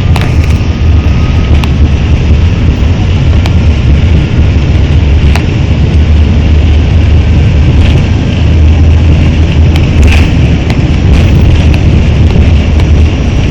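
Jet airliner taking off: a loud, steady low rumble of the engines at takeoff power.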